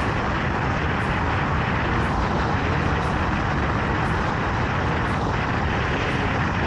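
Motorcycle cruising at steady speed on pavement: a constant rush of wind over the microphone mixed with engine and tyre noise, with no change in pace.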